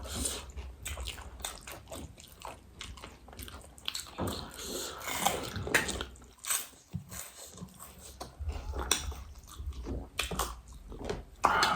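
Close-up chewing and crunching of crisp snack food, with irregular crackly bites and mouth noises.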